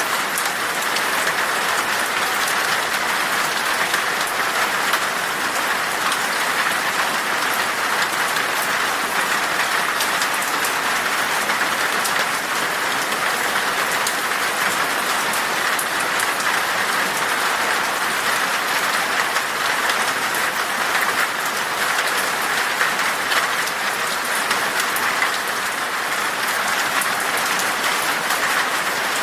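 Steady rain falling in a forest: an even, unbroken hiss sprinkled with many small, sharp drop hits.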